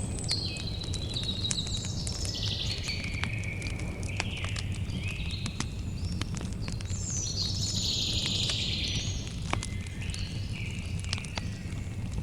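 Campfire crackling with frequent sharp pops over a low steady rumble, while songbirds chirp and sing throughout, one giving a dense trill about two-thirds of the way through.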